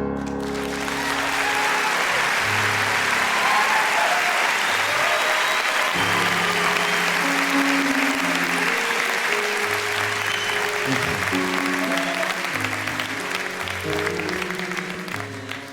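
Audience applause at the end of a live song recording, with a few held instrument notes underneath. The applause and notes fade out near the end.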